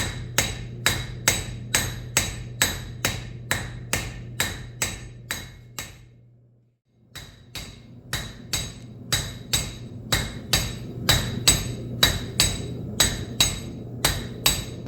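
Hammer blows on a hot railroad spike on an anvil in a steady rhythm, about two and a half a second, each with a short metallic ring. The blows stop briefly about six seconds in and start again a second later, over a steady low hum.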